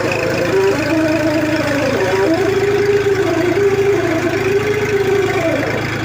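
Tractor engine running steadily, with a higher wavering tone that rises and falls over it.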